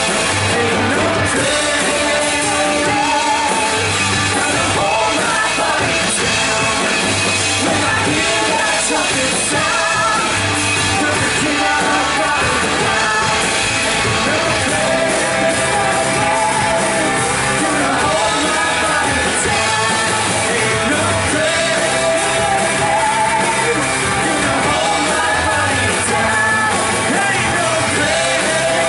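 Live church worship band playing an upbeat rock-style song with sung vocals, loud and continuous, heard in a large hall.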